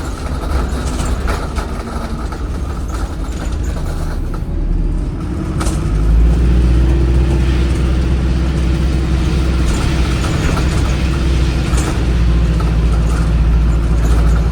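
Diesel engine of an ADL Enviro 400 hybrid bus, a Cummins ISBe 4.5-litre four-cylinder, working under heavy throttle. About six seconds in its low drone steps up sharply and then holds loud and steady.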